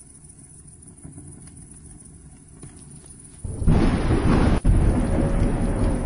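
A low rumble, then a sudden loud thunderclap about three and a half seconds in that runs straight into a steady roar of heavy rain and storm noise.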